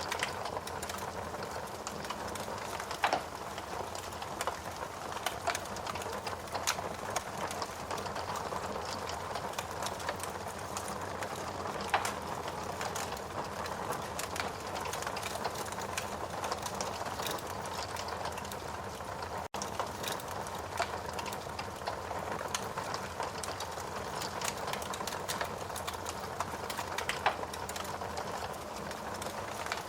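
Burning logs in a fireplace: a steady hiss of flames with frequent small crackles and a few louder pops, about three seconds in, twelve seconds in and near the end. The sound drops out for an instant about two-thirds of the way through.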